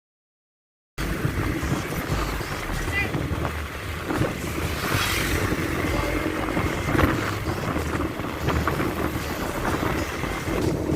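Silent at first, then cutting in about a second in to the steady rush of a motorcycle ride: engine and road noise with wind buffeting the microphone.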